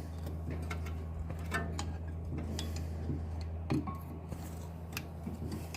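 Scattered light metallic clicks and clinks of hand tools working on a BMW 320's brake caliper and pads, over a steady low hum.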